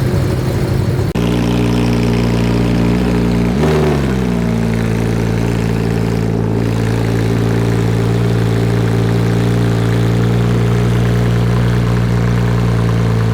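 Car engine idling steadily, its pitch dipping and recovering briefly about four seconds in.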